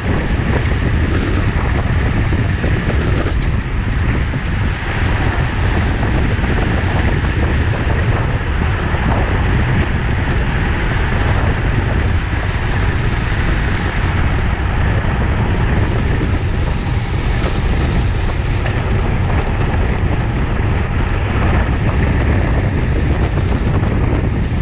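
Wind buffeting the microphone of a camera on a moving bicycle: a loud, steady rumble that holds throughout.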